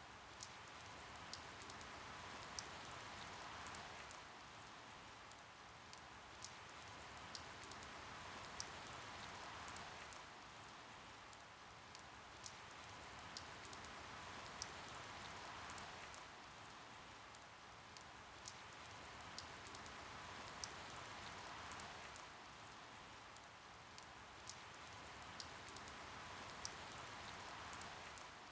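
Steady, faint rain with many sharp individual drops pattering on surfaces; the hiss swells and eases about every six seconds.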